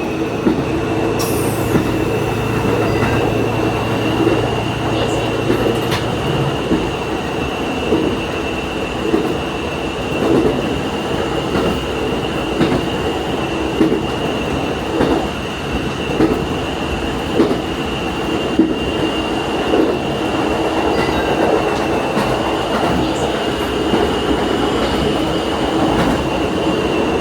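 Diesel railcar running along the line, heard from the cab: a steady rumble with a thin high whine held over it and regular knocks of the wheels over rail joints. A low engine hum drops out about six seconds in.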